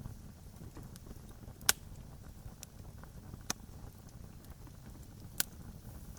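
Wood campfire crackling: three sharp, loud pops about two seconds apart and a few fainter ticks, over a steady low rumble.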